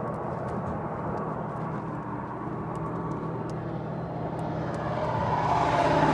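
A road vehicle driving: a steady engine hum with road noise, growing louder over the last second or so.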